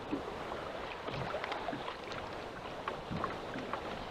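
Water sloshing and lapping against a small fishing boat's hull, with small irregular splashes and light wind on the microphone.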